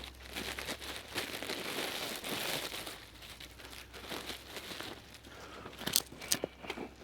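Rustling and crinkling, like dry material being handled, with two sharp snaps about six seconds in.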